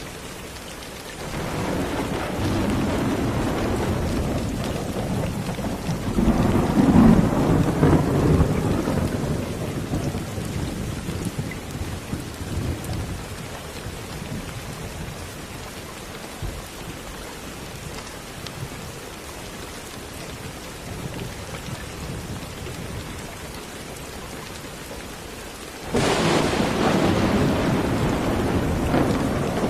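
Steady rain with rolling thunder. A rumble builds about a second and a half in, swells, and fades away by the middle. Near the end a sharper thunderclap starts suddenly and rumbles on.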